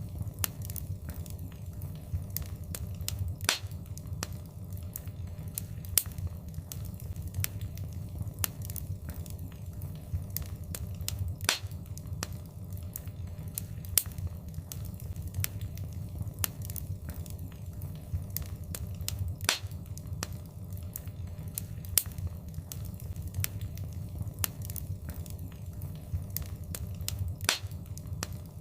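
Wood fire crackling in a fireplace: a steady low rumble of the flames under constant irregular sharp pops and snaps, with a few louder pops spread through.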